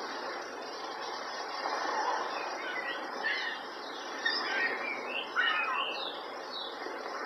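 A run of short, high chirping calls, bird-like, over a steady hiss of background noise; the chirps cluster in the middle of the stretch.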